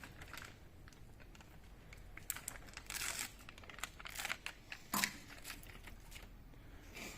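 Crinkling and rustling with scattered clicks, in a small room, and one sharp knock about five seconds in.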